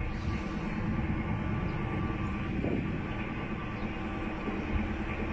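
Narrowboat's inboard diesel engine running steadily while cruising, with a constant low drone.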